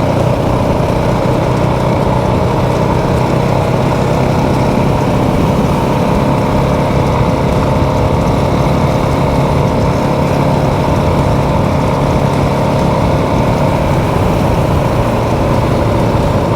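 Motorcycle engine running steadily while riding, its pitch holding even throughout, with rough low rumble underneath.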